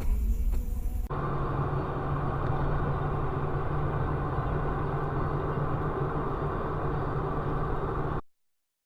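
Steady vehicle engine and road noise that switches abruptly about a second in to a muffled, even drone with a steady low hum, then cuts off suddenly near the end.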